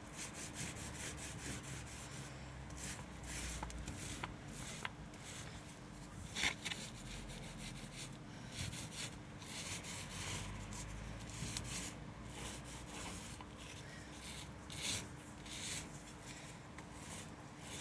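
High-density paint roller rolling paint back and forth across a metal garage door, a repeated rubbing swish with each stroke.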